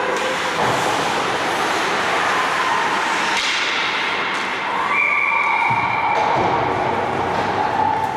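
Ice hockey rink ambience: a steady wash of noise with thuds, and a held tone about five seconds in that lasts just over a second.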